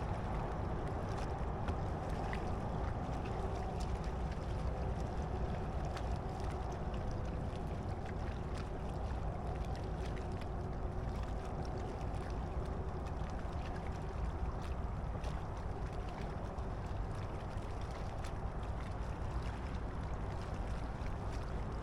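Steady wind and water noise on a fishing kayak out on open water, with faint scattered ticks.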